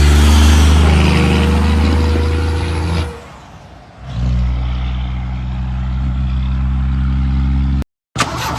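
Loud truck engine running with a steady low rumble, cutting out about three seconds in; after a second another engine runs steadily and then stops abruptly near the end.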